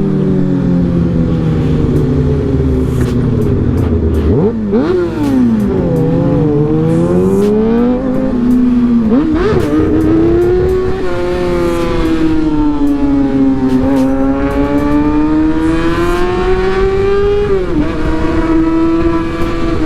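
Motorcycle engine heard while riding. Its pitch falls and climbs as the revs change, with quick breaks about four and nine seconds in and again near the end, as the rider shifts gears.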